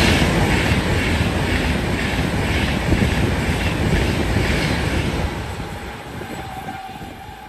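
Express passenger train passing close by at speed without stopping: a loud rumble and rush of air with a rhythmic clatter of wheels over the rails, fading over the last couple of seconds as the rear of the train pulls away.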